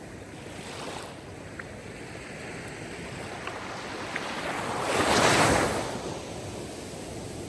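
Sea waves washing on the shore. One wave builds to a loud break about five seconds in, then recedes into the steady wash of the surf.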